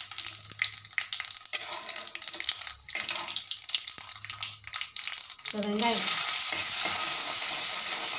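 Mustard seeds, cumin and urad dal crackling and spattering in hot sesame oil in a steel kadai, with a spatula stirring through them. About six seconds in, sliced onions go into the oil and a loud, steady sizzle takes over.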